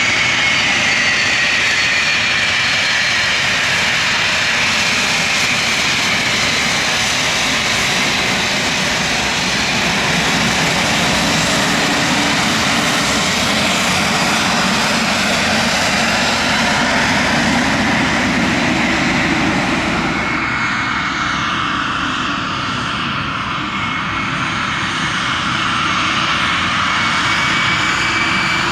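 Aircraft engines at close range: a loud, steady rushing with a high whine that slides down in pitch over the first several seconds. About twenty seconds in the sound dulls at the top and a steady high whine comes through.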